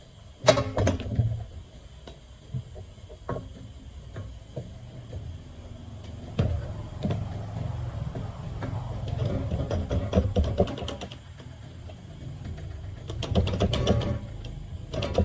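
Irregular metallic clicks, knocks and clatter of hand tools and engine parts being handled during repair work on a two-stroke cultivator engine. The sharpest knock comes about half a second in, and denser clattering follows in the second half.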